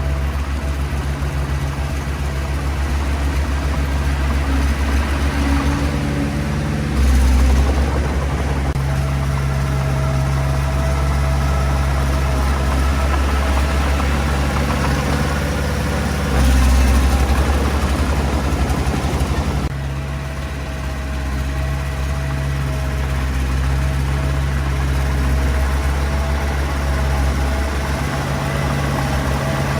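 Heavy diesel engine of earthmoving equipment running steadily, with two short, louder low surges, the first about a quarter of the way in and the second near the middle.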